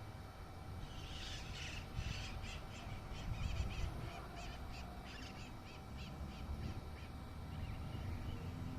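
A flock of maritacas (parakeets) calling, with many short, wavy chirping calls in quick succession from about a second in until near the end. These are agitated calls from birds mobbing a drone in flight.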